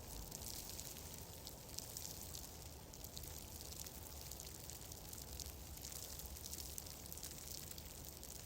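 Fireplace fire crackling softly: a steady hiss with many small, irregular pops and ticks over a low rumble.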